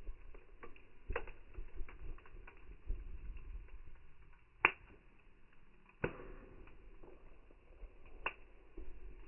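Wood campfire crackling: scattered small clicks, with three sharper pops in the second half.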